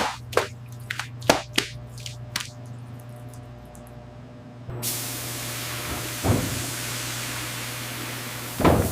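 Factory machinery: a low hum with a few sharp knocks and clicks, then, about five seconds in, a steady hiss that starts suddenly and holds, broken by a couple of thuds.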